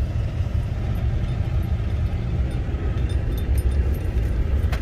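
Steady low rumble of a running vehicle, mixed with strong wind buffeting, with a few faint light rattles.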